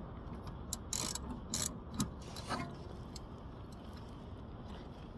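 A handful of short, sharp metallic clicks and scrapes of hand tools, a socket ratchet working on the brake caliper bolts, bunched in the first half, then only a steady low background.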